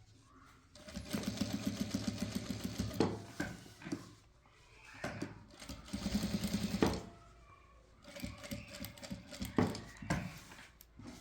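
Sewing machine stitching in two fast, even runs of a couple of seconds each, followed by scattered clicks and knocks.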